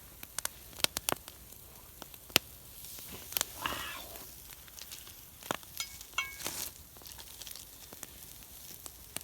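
Bacon frying in a pan over a wood campfire: irregular sharp pops and crackles over a faint sizzle, with a brief ringing clink past the middle.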